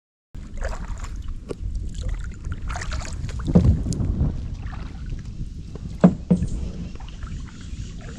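Kayak paddling: paddle blades dipping and splashing in the water, with a few sharp knocks, over a steady low wind rumble on the microphone.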